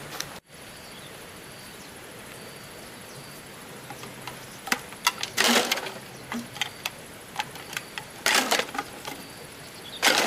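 Bamboo being worked by hand: from about five seconds in, sharp wooden knocks and clicks with three short rasping cracks, over a steady faint background with a thin high hum.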